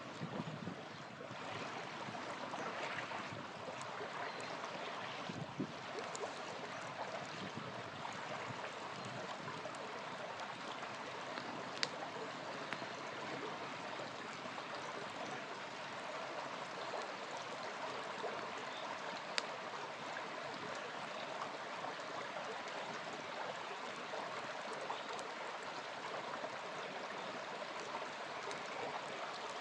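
A small river flowing steadily with a continuous rushing, gurgling sound. A wood campfire gives a few sharp pops and crackles over it, two of them standing out.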